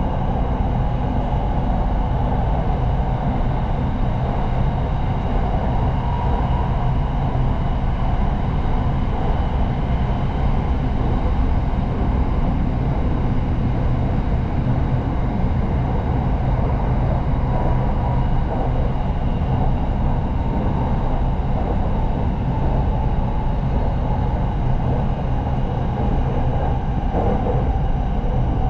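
Red Line electric commuter train running, a steady rumble with a faint high whine above it.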